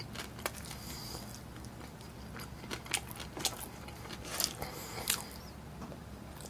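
Quiet close-up eating sounds: chewing and mouth clicks while eating a burger, with a few sharper crackly ticks, like a paper wrapper handled, in the middle.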